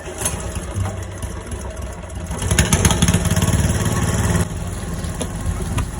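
A small petrol generator's engine starting and running, louder for about two seconds in the middle, then dropping abruptly to a steadier, lower running sound.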